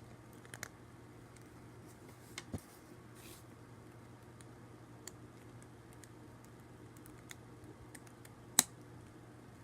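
Scattered small clicks of LEGO plastic pieces being handled, with one sharper click near the end, over a low steady hum of room tone.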